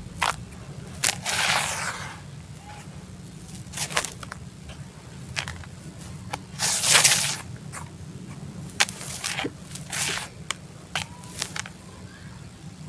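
Sand-cement concrete chunks crumbling and being crushed, with scattered sharp crackles and two longer gritty crunches, one about a second and a half in and one near the middle.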